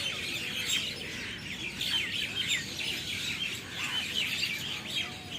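Din of a large flock of birds settling to roost in a big tree at dusk: many overlapping short chirps and calls at once.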